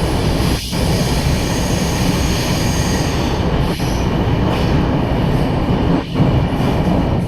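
Passenger train running through a railway tunnel: a loud, steady rumble of wheels on rail, closed in by the tunnel walls.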